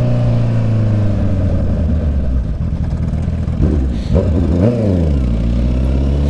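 Honda CB650 inline-four motorcycle exhaust bellowing as it is ridden, a steady drone that slowly sinks in pitch. About four seconds in the revs swing quickly up and down a few times, then settle at a lower steady pitch.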